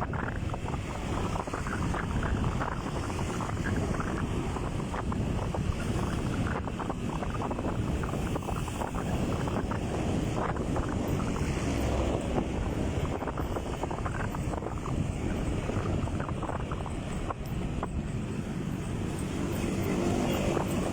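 Steady wind buffeting the microphone on a moving motorcycle, with the ride's rumble underneath.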